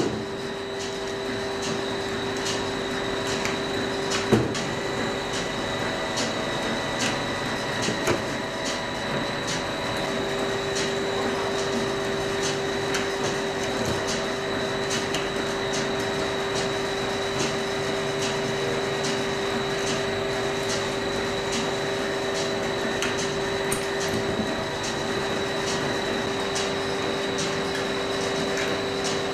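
Dairy processing machinery running: a steady hum with several held tones and constant rapid clicking, with a louder knock about four seconds in and another about eight seconds in.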